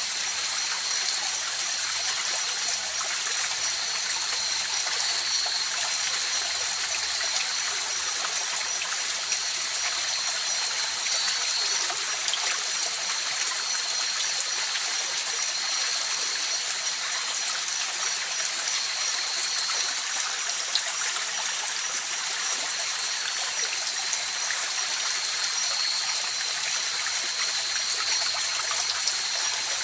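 River water flowing steadily over stones, a continuous rushing and trickling, with a thin, steady high-pitched tone running over it.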